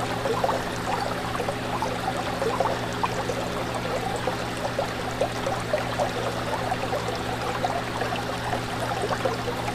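Fish tank water bubbling and trickling over a steady low hum from the tank's pump.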